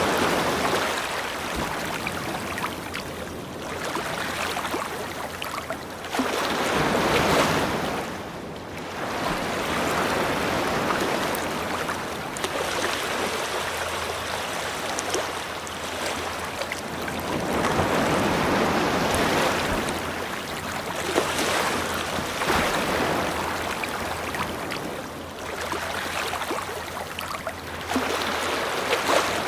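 Ocean surf: waves washing onto a beach, a steady rush of water that swells and fades every several seconds.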